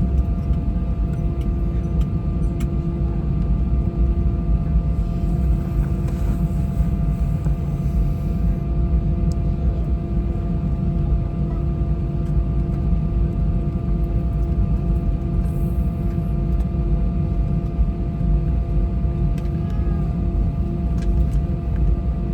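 Cabin noise inside an Airbus A320-232: its IAE V2500 engines and airflow make a steady low rumble, with a few even hums on top that do not change in pitch.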